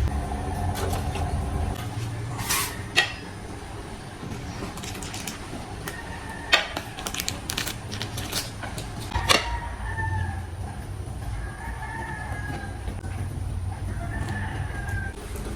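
Rooster crowing a few times from about ten seconds in, over a low steady hum, with a few sharp clicks earlier on.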